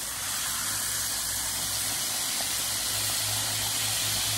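Pork chops frying in a skillet of hot oil, giving a steady sizzling hiss.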